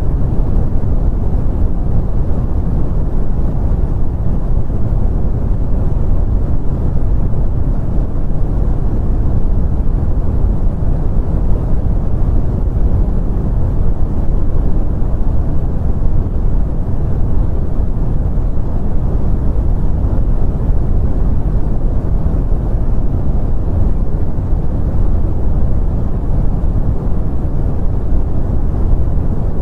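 Continuous brown noise: a steady, deep rumbling hiss with most of its energy in the low end and little above the midrange, unchanging throughout.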